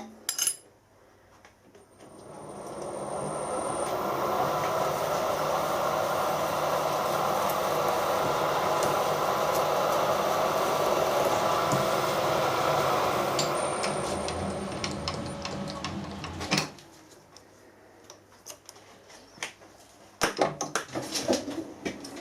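Milling machine drilling into a broken steel stud: a steady cutting hiss and hum that builds up over the first few seconds, holds, then fades and stops sharply about three quarters of the way in. A few clicks and taps follow.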